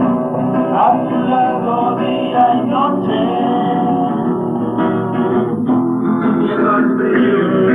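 Live acoustic music: acoustic guitars strumming chords, with a melody line over them.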